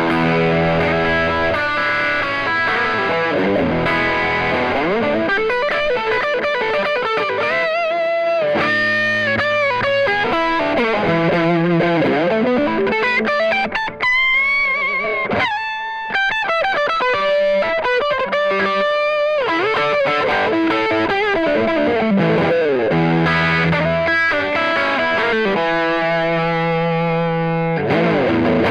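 PRS S2 Custom 24 electric guitar with Seymour Duncan pickups, played with distortion: riffs and lead lines, with string bends and vibrato near the middle.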